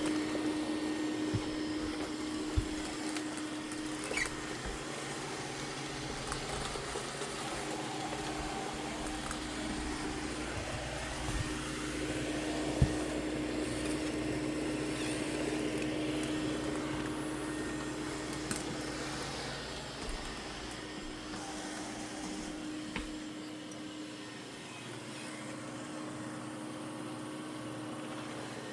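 Mova P50 robot vacuum-mop running: a steady motor hum with a constant tone. A few sharp clicks come through, and it grows somewhat quieter near the end.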